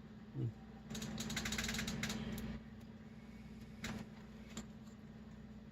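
Peel-off masking being pulled from a plastic model canopy: a rapid run of fine crackles about a second in, lasting about a second and a half, with a few single clicks, over a steady low hum.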